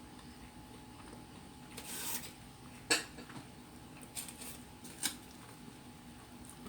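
Tableware handled during a meal: a short rustle, then a few sharp clicks and clinks, over a steady faint hum.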